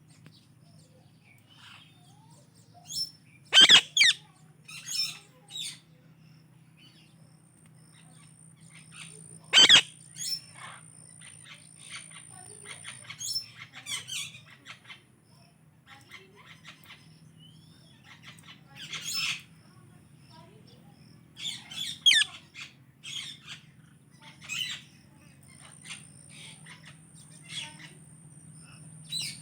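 Indian ringneck and Alexandrine parakeets calling: two loud, sharp squawks, one about four seconds in and one about ten seconds in, among many softer chirps and chatter.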